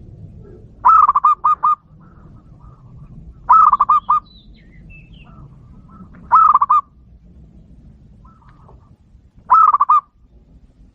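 Zebra dove (perkutut) cooing: four short phrases of quick, clear notes, one about every three seconds.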